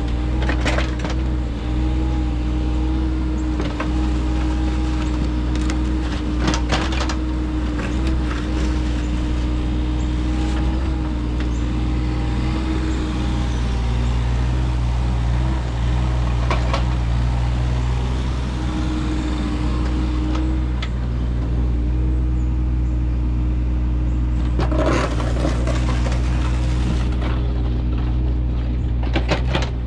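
Engine of a machine stripping sod, running steadily, with scattered knocks and clatters, a louder cluster of them near the end.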